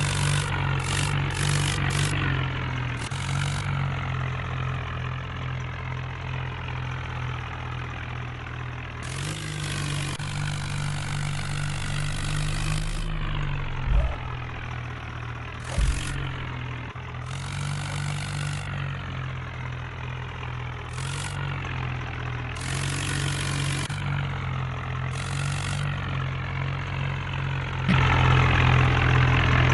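Tractor engine running steadily at low revs, with two short thumps in the middle and a step up to louder running near the end.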